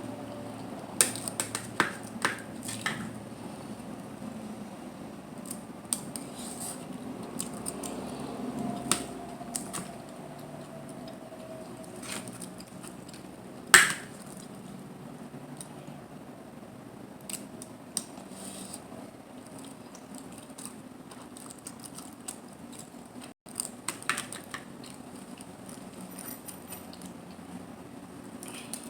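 Mussel and clam shells and utensils clicking and clinking against a plate while seafood is eaten: scattered sharp clicks, the loudest about 14 seconds in, over faint steady background noise.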